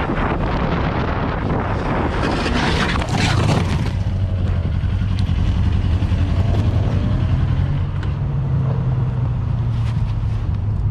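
Road vehicle in motion: wind buffets the microphone for about the first four seconds, then the wind drops and a steady low engine hum runs on.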